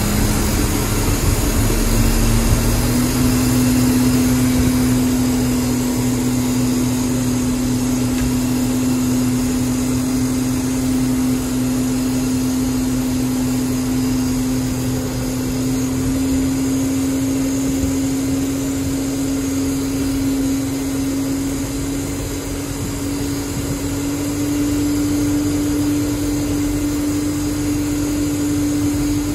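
Airbus A321 during pushback: a steady rushing noise with a strong humming whine. The whine steps up in pitch about two and a half seconds in, then creeps slowly higher.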